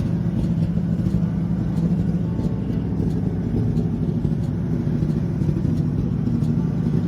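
A car engine running steadily with a low rumble, its pitch unchanging throughout.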